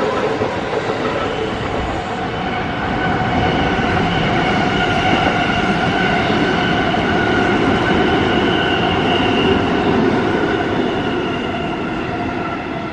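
Electric commuter train running past the station platform at steady speed: a loud rush of wheels on rail with several steady high tones over it, fading slightly near the end.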